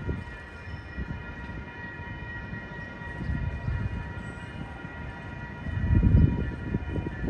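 Passenger train running, with a low rumble that swells about six seconds in, under a set of steady high whining tones.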